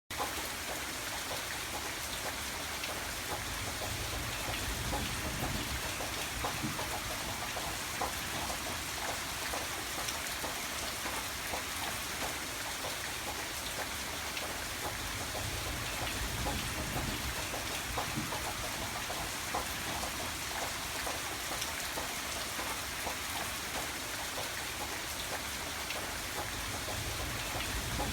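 Steady rain falling, with many individual drops ticking on a hard surface over a constant hiss. A low rumble swells and fades underneath every several seconds.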